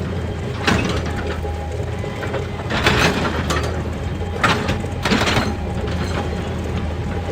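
Excavator engine running steadily, with about four short scraping, clanking sounds from the machine at work.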